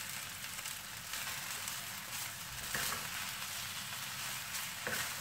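Schezwan fried rice sizzling in a kadai over full gas flame as it is tossed and mixed with spatulas. Spatula scrapes against the pan come through, the clearest about three seconds in and again near the end.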